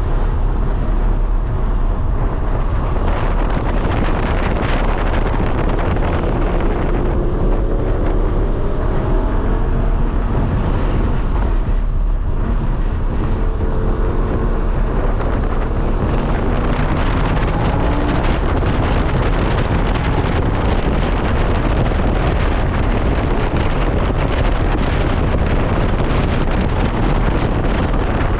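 Lamborghini Huracán V10 engine at speed on a race track, its pitch rising and falling as it accelerates and slows. Heavy wind noise on the microphone and road noise run underneath.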